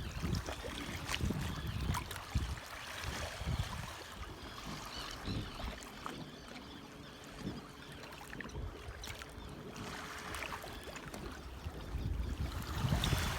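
Water splashing and trickling around a kayak on the water, with small drips and splashes throughout. Wind rumbles on the microphone, most strongly near the start and again near the end.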